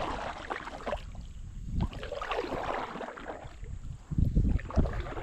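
Kayak on the water with irregular paddle splashes, and wind rumbling on the microphone that gets louder about four seconds in.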